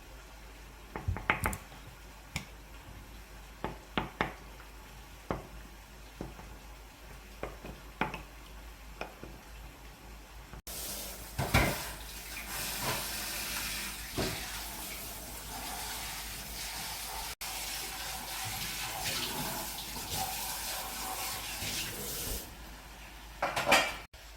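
Kitchen clatter of dishes and utensils, a scattering of sharp clinks and knocks, then a kitchen tap running into a sink for about twelve seconds, with a final clatter near the end.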